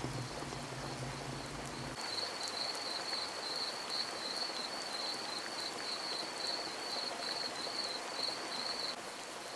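Night wildlife ambience: an insect trills high and steadily in a pulsing rhythm, about two to three pulses a second, over a soft hiss. A low droning underneath cuts off about two seconds in.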